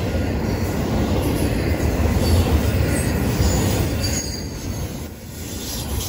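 Double-stack container well cars rolling past on a curve: a steady rumble of steel wheels on rail, with faint brief high wheel squeals now and then. The rumble dips briefly about five seconds in.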